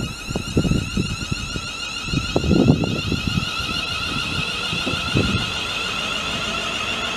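Wind buffeting the microphone in gusts, over a steady, warbling high-pitched whine that grows slightly louder, typical of the rails singing ahead of an approaching train.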